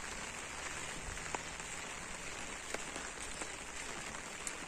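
Light rain falling: a faint, steady hiss with a few faint ticks.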